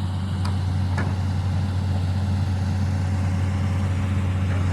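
Diesel engine of heavy farm machinery running steadily with a low hum, with faint clicks about half a second and a second in.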